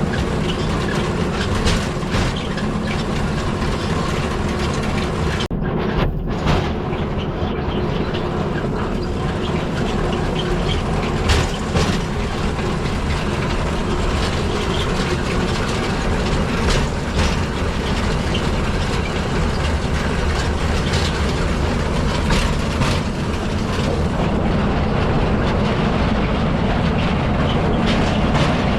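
Steel wheels of a pedal-powered rail bike rolling along old railway track: a steady rumble broken by irregular clicks and knocks, the clickety-clack of the wheels passing over rail joints.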